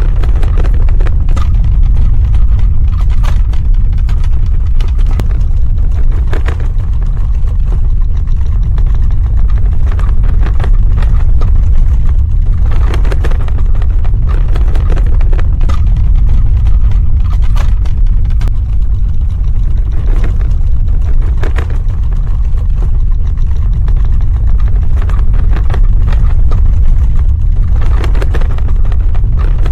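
Earthquake sound effect: a loud, continuous deep rumble with scattered crackling and rattling over it.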